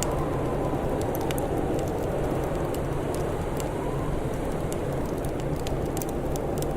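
Crackling wood fire: irregular sharp pops and snaps scattered over a steady low rushing noise.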